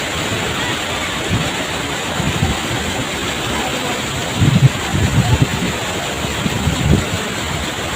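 Tegenungan waterfall rushing steadily, with a few low thuds about halfway through.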